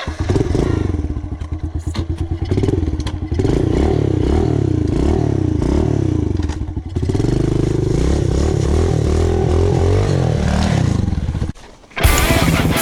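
Small single-cylinder 110cc pit bike engine revving up and down again and again as it is ridden, its pitch rising and falling with the throttle. It drops out briefly just before the end, and rock music with electric guitar cuts in.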